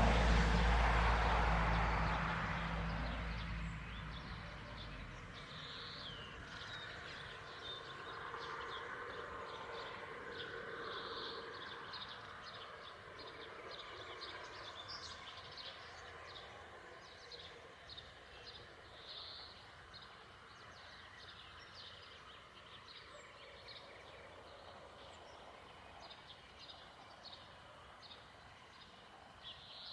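A passing vehicle's rumble fading away over the first few seconds, then small birds chirping repeatedly over faint background noise.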